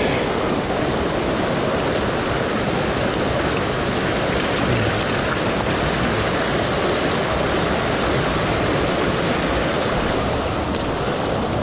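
Steady rush of a rain-swollen creek: fast runoff water flowing over rocks in a canyon streambed, an even noise without a break.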